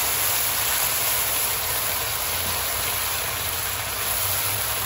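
Lobster tails sizzling in sauce in a hot wok: a steady hiss over a low, even hum.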